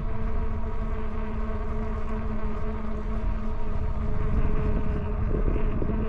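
Electric bike's hub motor whining steadily, with wind rumbling on the microphone. The whine wavers briefly about five seconds in.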